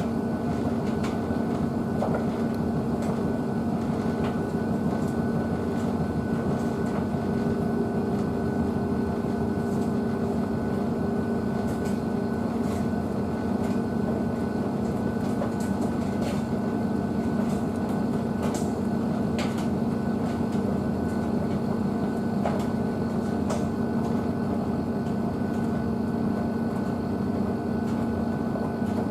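Blomberg WNF9448 washing machine running its wash cycle with dog bedding in the drum: a steady motor hum with a faint scatter of small clicks.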